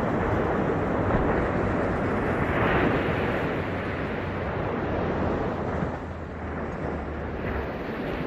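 Ocean surf washing onto the beach: a continuous wash of breaking waves that swells to its loudest about three seconds in and eases off after about six seconds.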